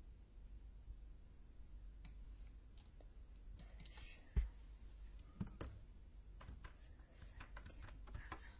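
Faint, scattered clicks and soft brushing close to the microphone, a sparse ASMR trigger with a couple of sharper clicks about halfway through.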